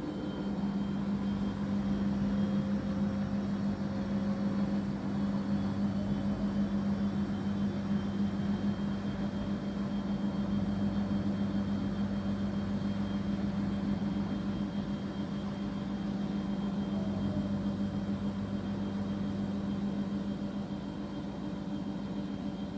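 Washing machine running with a steady low hum and a faint tone that rises slowly.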